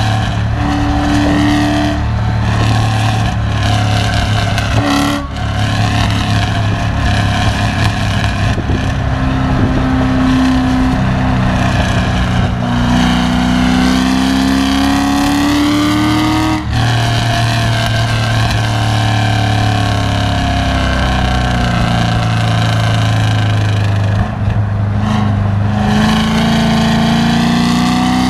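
Chevrolet Corvette V8 running hard at road speed, its pitch holding, then climbing slowly for several seconds and dropping sharply about two-thirds of the way through at a gear change, then climbing again near the end, over steady road and wind noise.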